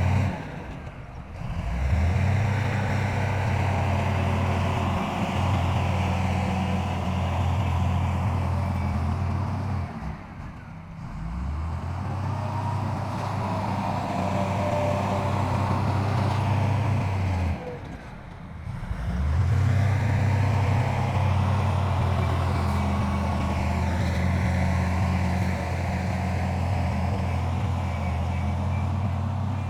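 Heavy diesel earthmoving machinery engine running steadily under load. It drops away briefly three times and picks up again.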